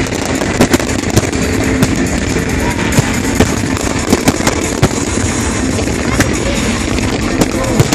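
Fireworks display in a dense, continuous barrage: many bangs several times a second over a steady crackle.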